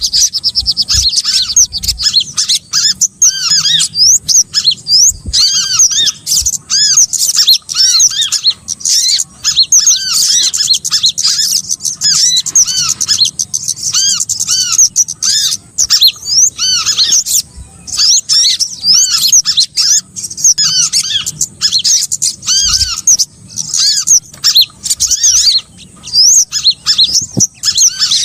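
Lure recording of small birds calling: a dense, loud mix of many high-pitched chirps and twitters, short arched notes repeated rapidly and overlapping, of the kind played to draw in small birds such as sogon.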